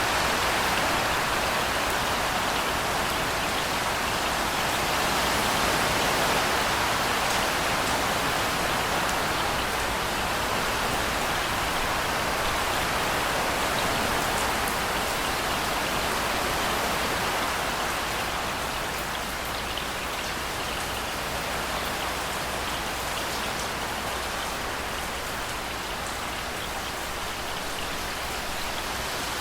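Steady heavy rain: a continuous hiss of falling rain with a patter of individual drops on hard surfaces. It eases off a little past the middle, with no thunder.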